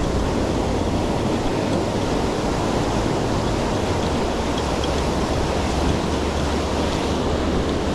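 Ocean surf washing on the beach, a steady rushing noise with no distinct breaks.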